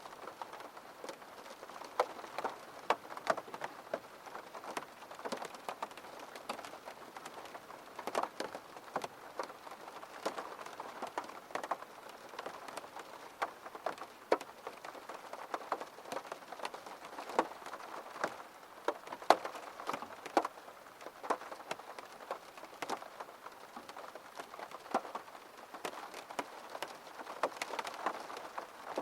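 Steady rain, with many separate drops tapping at irregular moments over a continuous patter.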